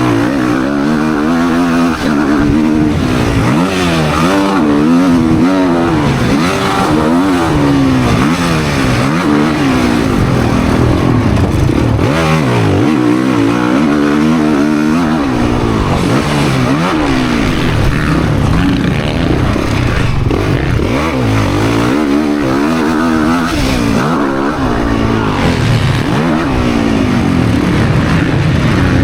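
Motocross dirt bike engine revving hard and backing off over and over, its pitch climbing and dropping every second or two as the bike accelerates out of turns and shuts off into them.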